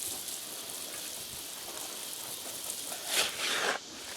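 Garden hose spraying water against the inside of a plastic mixing tub, a steady hiss that swells about three seconds in and then drops off sharply.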